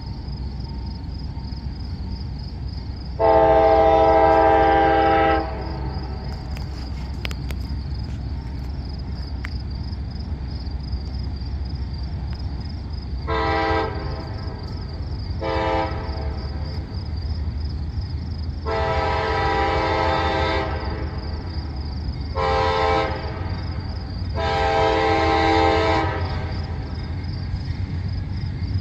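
Nathan K5LA five-chime air horn on a CSX CM44AH locomotive, sounded in a series of long and short blasts, the first long blast the loudest. A steady low rumble of the train's locomotive and cars runs underneath.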